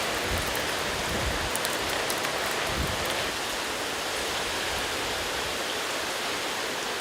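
Heavy typhoon rain pouring down, a steady rushing hiss.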